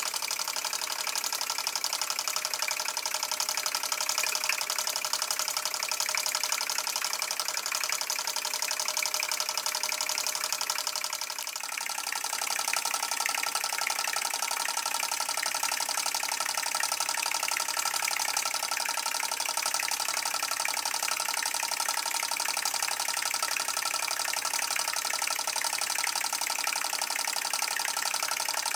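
Homemade TTB V2 stationary model steam engine running on live steam with a rapid, steady beat. The level dips briefly about eleven seconds in, then the engine runs on.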